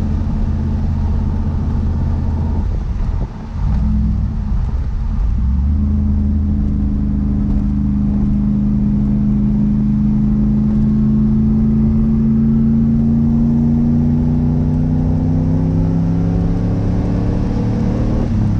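1988 Pontiac Firebird Formula's 305 small-block V8 with Magnaflow exhaust running under load while driving. There is a gear change about three seconds in, then the revs climb slowly and steadily for a long stretch before dropping again for the next shift right at the end.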